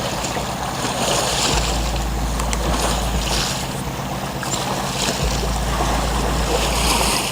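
Wind rumbling on the microphone over a wash of water around a paddled canoe, the splashing swelling and easing every second or so.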